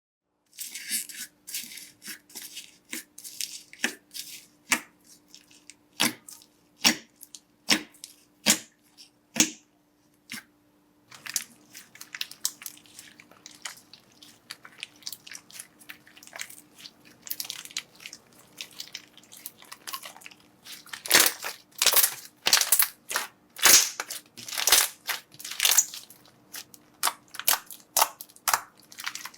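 Slime being pressed and worked by hand, giving sharp crackling pops. The pops come one at a time, about a second apart, at first, then thick and fast from about a third of the way in, and are loudest in the last third.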